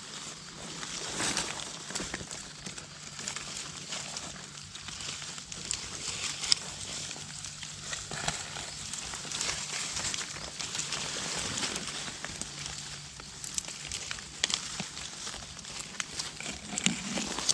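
Rustling and crackling of dry leaves and undergrowth, with scattered small snaps and clicks, as someone moves through and handles the vegetation.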